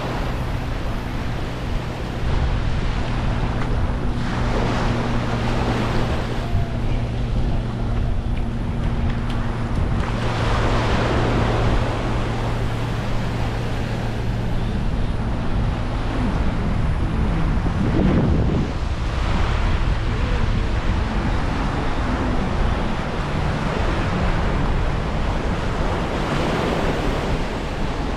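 Small waves washing onto the beach, a swell of surf every several seconds, with wind buffeting the microphone. A low steady hum sits underneath and fades out a little past halfway.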